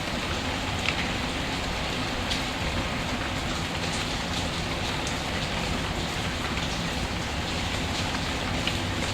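Steady rain falling, with a few faint isolated ticks scattered through it.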